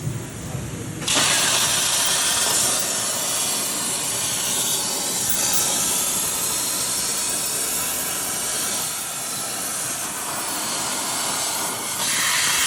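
CNC plasma cutter cutting a steel bracket: a loud, steady hiss from the plasma torch that starts abruptly about a second in and cuts off suddenly at the end.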